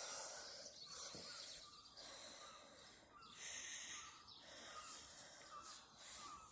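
Near silence: a faint hiss that swells and fades in patches.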